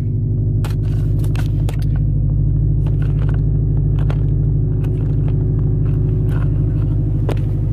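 Subaru WRX's flat-four engine running steadily at an even speed, with scattered short clicks over it.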